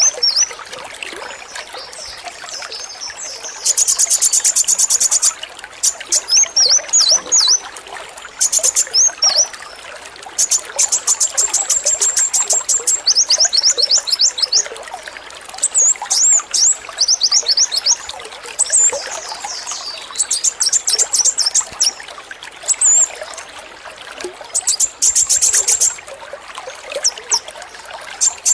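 A male sunbird ('kolibri wulung') singing in repeated high-pitched bursts: rapid rattling trills that keepers call its 'AK-47' song, mixed with short chirps. Under it runs a steady trickle of water.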